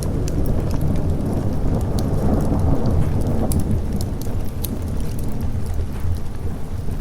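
Steady rain with thunder rumbling low, swelling up about two seconds in and fading by four, over scattered sharp crackles and pops of a wood fire.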